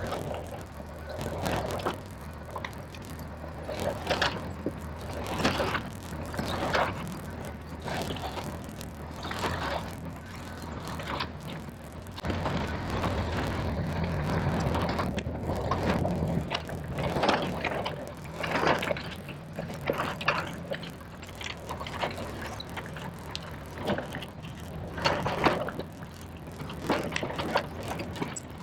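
Diesel engine of a tracked earthmoving machine running steadily while grading soil, with frequent short metallic clanks and scrapes through it.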